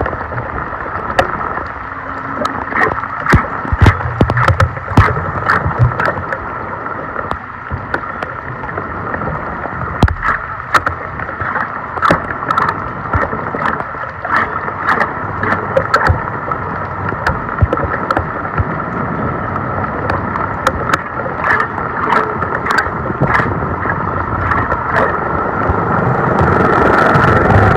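Floodwater rushing and gurgling into a clogged street storm drain, with frequent sharp clicks and knocks scattered through it.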